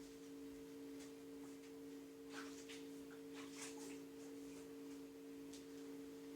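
Quiet, steady hum made of two low tones, with faint scattered clicks and scratches from small objects being handled.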